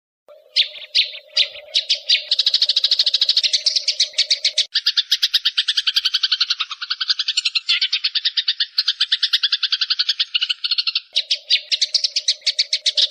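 Eurasian tree sparrows' fighting chatter: a few spaced chirps quickening into a rapid run of about ten sharp chirps a second. Midway it turns into a lower, denser chattering, then goes back to the fast run near the end.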